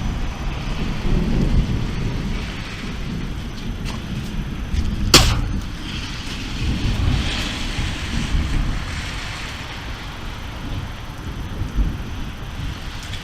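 Thunder rumbling low and steadily with rain falling, and one brief sharp snap about five seconds in.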